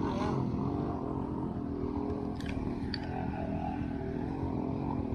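A vehicle engine running at a fairly steady pitch, with two short sharp clicks about two and a half and three seconds in.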